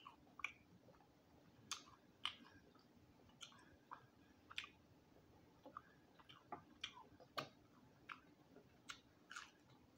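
Quiet close-up chewing of crispy roasted quail: irregular small crunches and mouth clicks, about two a second.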